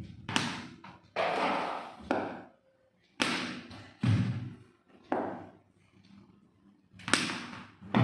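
A series of sharp thuds and knocks, roughly one a second, each dying away quickly, with a short break in the later part.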